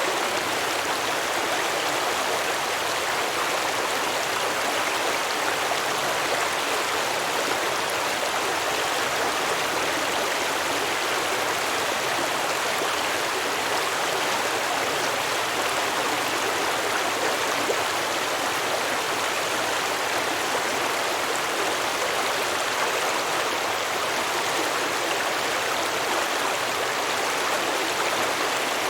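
Stream water flowing and babbling over rocks, a steady, even rush.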